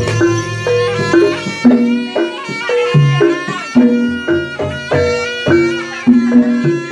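Live Javanese jaranan ensemble music: drums and gamelan metallophones strike a repeating pattern under a reedy shawm (trompet) melody.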